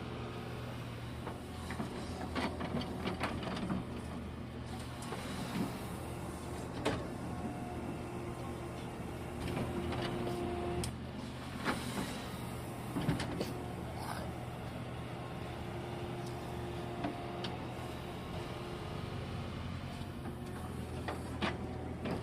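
Kobelco excavator's diesel engine running steadily while loading soil into a truck, with a higher whine that comes and goes and scattered sharp knocks and clatter.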